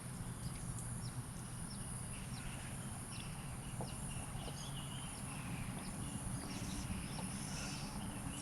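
Outdoor ambience: birds chirping in many short, quick calls over a steady low background hum.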